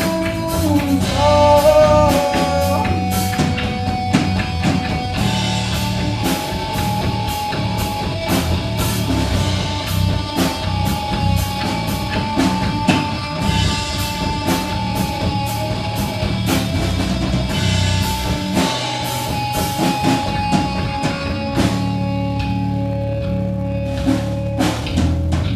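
Live rock band playing an instrumental passage: drum kit and guitars, with long held guitar notes over steady drumming.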